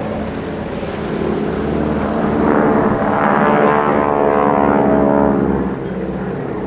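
Propeller-driven aircraft flying past, its engine drone building to a peak midway and then fading away.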